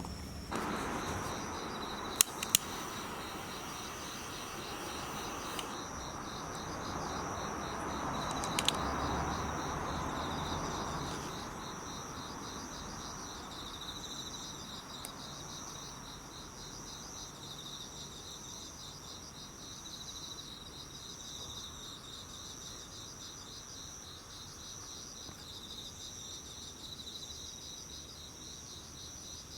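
Autumn insects chirping in a steady, pulsing chorus. In the first dozen seconds a few sharp clicks and a rushing hiss that swells and fades come from the firewood being lit in the small stove.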